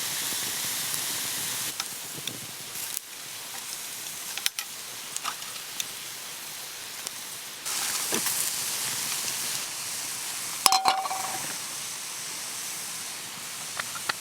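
Monjayaki sizzling steadily on a hot iron griddle, with scattered small clicks. About two-thirds of the way through there is one sharp metallic clink that rings briefly.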